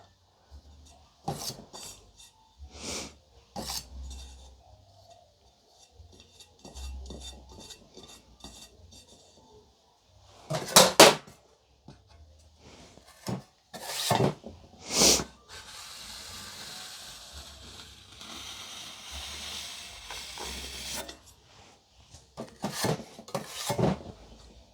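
Metal cake-decorating tools clinking and knocking against dishes and the turntable, with a few seconds of steady scraping partway through as buttercream is smoothed.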